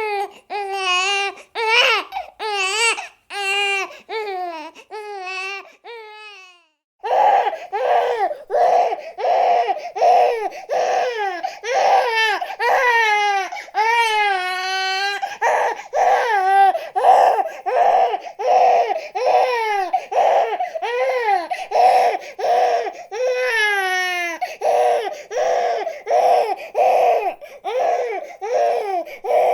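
Infant crying in repeated wails that waver in pitch. About seven seconds in the crying breaks off for a moment, then resumes as a quicker run of short cries, about two a second.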